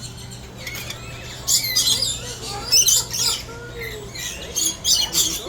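Feeding birds giving harsh, high-pitched screeches and squawks in repeated bursts, loudest about a second and a half, three seconds and five seconds in.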